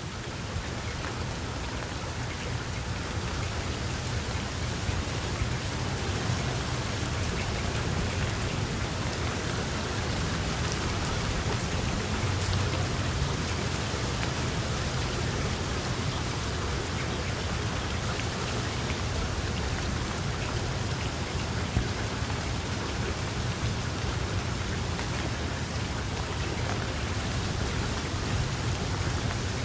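Steady heavy rain falling, a dense hiss with scattered drop ticks and a deep low rumble beneath.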